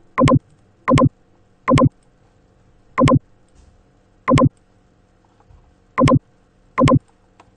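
Seven loud, short clicks at uneven intervals, each a quick double click.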